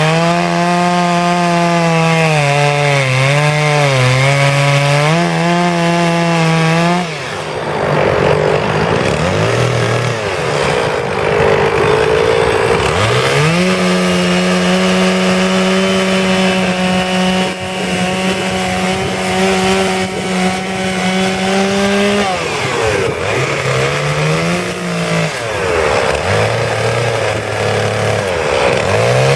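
Two-stroke chainsaw carving wood: the engine runs at high revs with its pitch dipping as the chain bites, drops off about a quarter of the way in, runs high and steady again through the middle, then revs up and down several times near the end.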